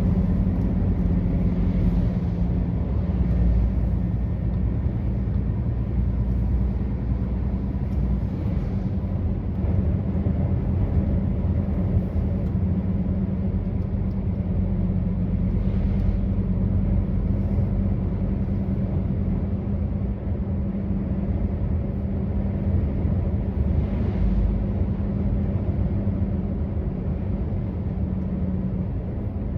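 Truck engine running steadily, a constant low hum over a rumble.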